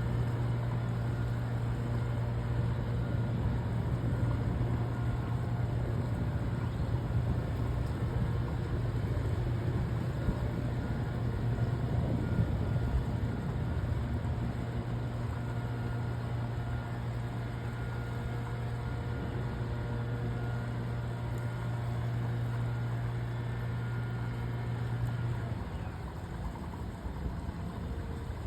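A motor running with a steady low hum over outdoor background noise; the hum cuts off suddenly about 25 seconds in.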